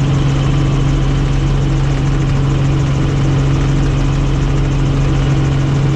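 Helicopter in flight: a steady, loud drone of engine and rotor with a constant low hum, unchanging throughout.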